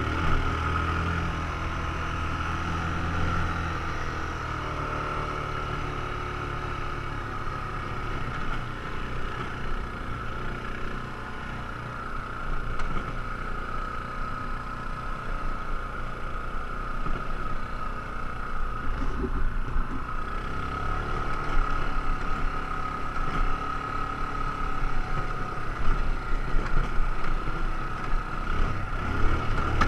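ATV engine running under way, its pitch rising and falling with the throttle, over a steady high whine. In the second half, sharp jolts come through, typical of the quad bouncing over rough trail.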